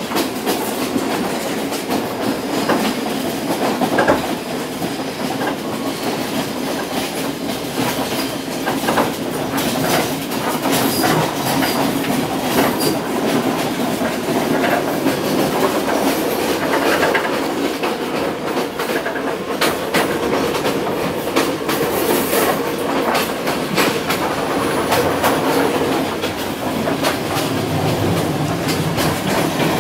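Astra-built Sri Lanka Railways observation saloon coach running along the track, heard from inside: a steady rumble with frequent clicks and knocks as the wheels go over the rail joints.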